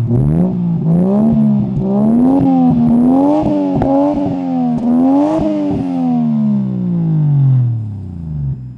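Turbocharged 1JZ-GTE straight-six of a Toyota Mark II IR-V revved through its exhaust in a series of blips, pitch climbing and dipping with sharp clicks at several rev peaks. It then drops smoothly back to idle near the end.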